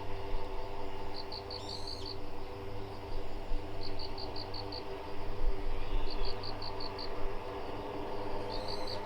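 Ambient background music: a steady held drone with cricket-like chirps in short runs of five or six pulses every two seconds or so, and a few falling bird-like chirps.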